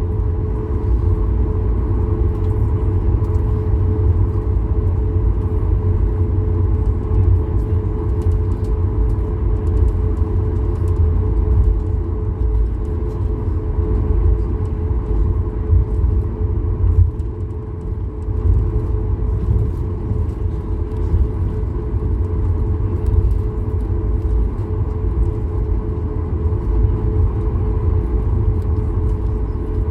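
Steady cabin rumble of a Boeing 737-8200 MAX in motion, heard from inside the cabin: a deep, even roar of its CFM LEAP-1B engines and airflow with a constant hum tone over it.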